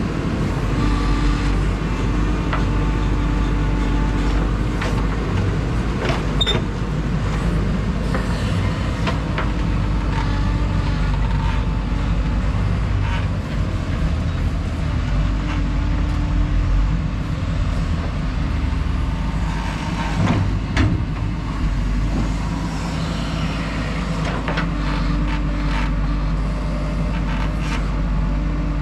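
JCB 3DX backhoe loader's diesel engine running steadily under load while digging and loading soil, with a few sharp metallic clanks.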